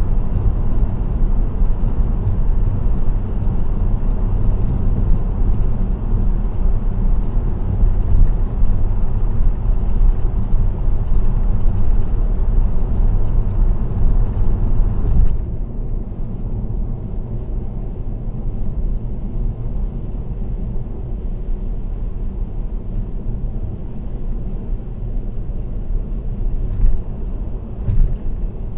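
Steady road and tyre noise of a car at expressway speed, mostly a low rumble. About halfway through it drops suddenly to a quieter level and stays there, as on a change of road surface.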